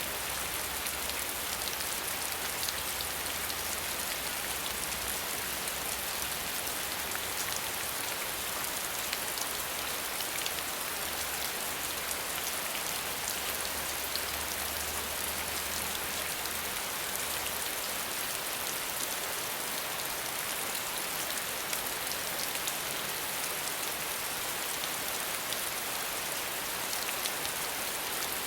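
Steady rain falling without thunder, an even hiss dense with the patter of small drops. A faint low rumble sits under it until about two-thirds of the way through.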